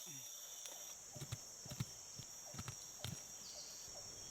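Faint, steady high-pitched drone of forest insects, with a scattering of light clicks and low knocks from handling close by.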